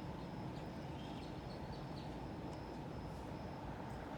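A few faint, short bird chirps scattered over a steady low background rumble of outdoor noise.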